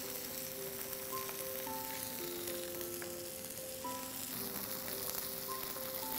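Marinated chicken breast sizzling in an oiled grill pan, a steady crackling hiss, under a soft background music melody.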